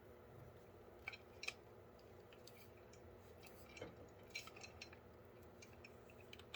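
Near silence with a few faint, scattered clicks and clinks of small metal parts being handled, the sharpest two about a second in and a second and a half in.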